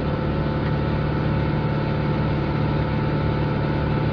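Kubota L6060 tractor's four-cylinder diesel engine running steadily at raised RPM, over about 2,000. The engine is held up so the full exhaust particulate filter can go into a regeneration.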